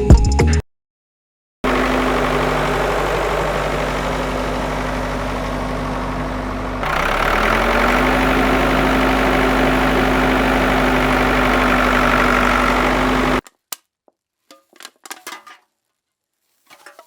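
A homemade mini tractor's small motor running steadily, its pitch stepping up slightly about halfway through. It cuts off suddenly, and a few faint clicks follow.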